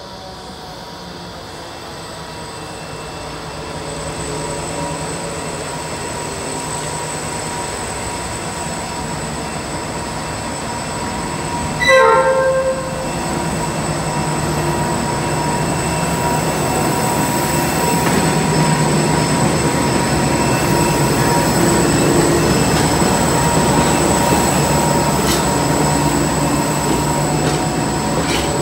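Diesel freight train approaching and passing, its rumble growing steadily louder. It gives one short horn blast about twelve seconds in, then the locomotive and wagons pass at their loudest, with steady high ringing tones over the rumble.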